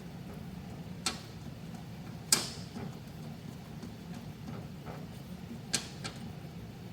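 Three sharp metal taps or clinks from work on the lathe's compound parts. The second tap is the loudest and rings briefly. A steady low hum runs underneath.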